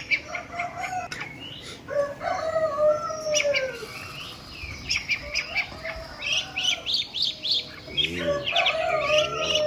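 Domestic chickens calling and clucking, mixed with small birds chirping in quick high trills. Most of the calls bunch up in the second half.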